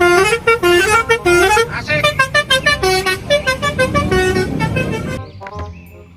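A musical horn playing a quick tune of short, bright notes, like a bus's melody horn. It stops about five seconds in.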